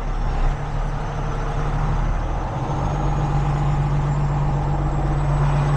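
Heavy tow truck's diesel engine running steadily, its low hum growing a little louder about two and a half seconds in.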